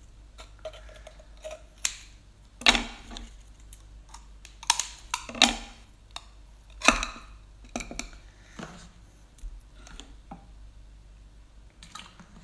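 Close-miked eating sounds: a handful of sharp, wet mouth smacks and bites, scattered irregularly over a quiet background.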